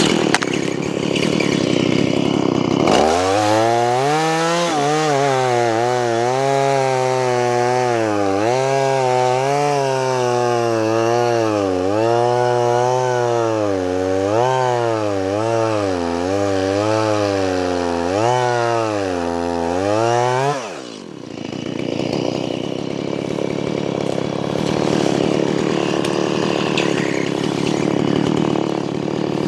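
Chainsaw cutting through a log. From about three seconds in it runs at high revs through the cut, its pitch dipping and recovering as the chain loads in the wood. About twenty seconds in the throttle is let off and the pitch falls away to a rougher, lower running.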